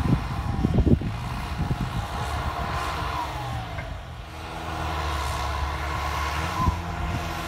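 Turbocharged tractor diesel engine running, with a few sharp knocks in the first second. About three to four seconds in, its turbo whistle falls in pitch as the revs drop, and the engine settles into a steadier, lower note.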